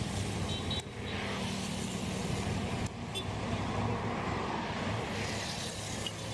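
Motor vehicle engines running amid steady road traffic noise, with a low steady hum.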